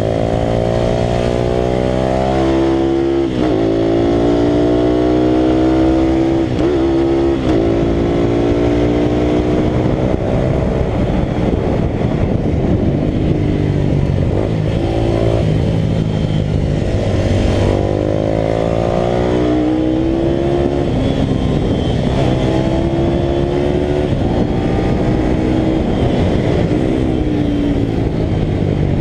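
Italika RT200 race motorcycle's single-cylinder four-stroke engine at racing speed. It climbs in pitch and drops back sharply at each gear change, several times, with steadier stretches in between.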